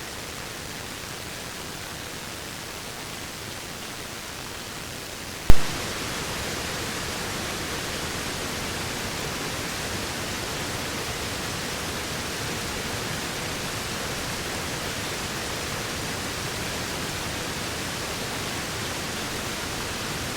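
Steady, even rushing of a waterfall. About five and a half seconds in there is a single sharp click, after which the rushing is louder and brighter.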